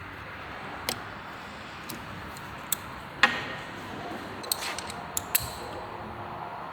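Scattered sharp metallic clicks and taps of tools and small engine parts being handled and set down, with the loudest knock about three seconds in.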